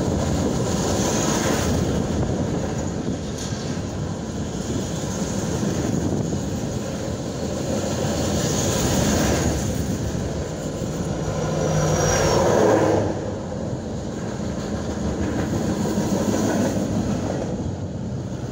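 Union Pacific manifest freight cars rolling past on steel wheels: a steady rumble and clatter of wheels on rail, swelling to its loudest about twelve seconds in, with a brief high-pitched squeal just before.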